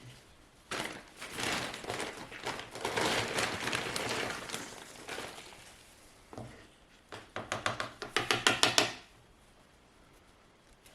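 Handling noises: a few seconds of rustling and scraping, then, after a pause, a quick run of taps or knocks, about six a second, that stops suddenly.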